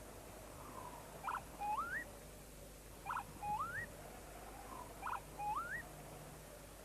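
A bird calling: a short double note followed by a rising whistle, repeated three times about two seconds apart.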